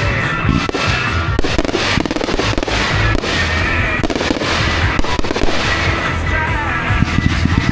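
Fireworks going off in quick succession, a dense run of bangs and crackling, with music playing at the same time.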